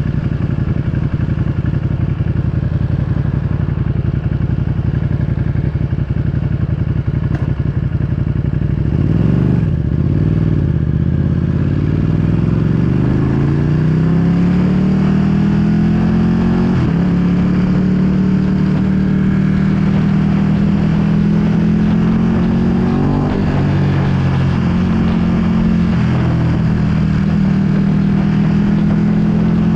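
Ducati Panigale V2's 955 cc L-twin engine breathing through a full Akrapovic exhaust. It runs steadily at low revs for about nine seconds, then pulls away with its note climbing over several seconds, and holds a steady, higher note with a brief dip about two-thirds of the way in.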